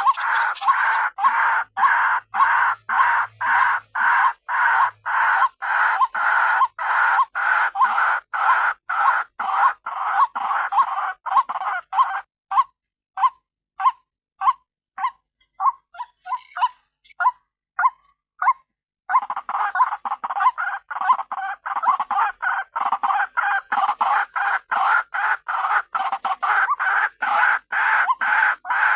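White-breasted waterhen (ruak-ruak) call, the female's call, repeated in a steady run of notes about two or three a second. About twelve seconds in, the notes thin to sparser single calls for several seconds, and the full series resumes about seven seconds later.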